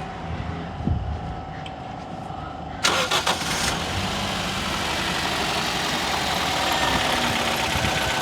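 Toyota Corolla XLi petrol engine cranked by the starter about three seconds in, catching within a second and settling into a steady idle.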